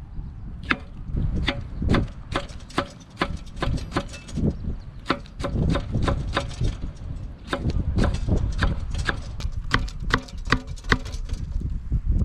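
Knife chopping on a cutting board: a run of sharp, irregular knocks, two or three a second, over a low rumble of wind on the microphone.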